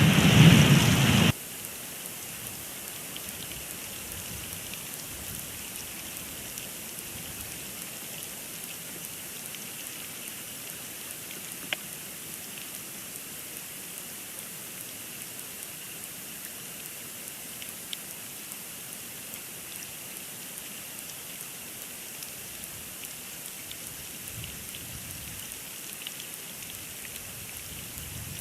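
Steady hiss of storm precipitation and wind on an outdoor nest-cam microphone during a snowstorm, with a couple of faint ticks. A louder rushing sound in the first second or so cuts off abruptly.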